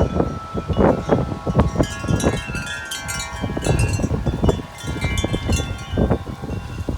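Several large tubular wind chimes ringing hard in gusty storm wind, many overlapping tones struck again and again, with wind gusts rumbling on the microphone.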